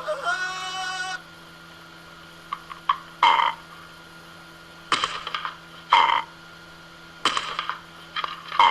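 Short harsh animal calls, repeated about every second or so, after a brief pitched call at the start.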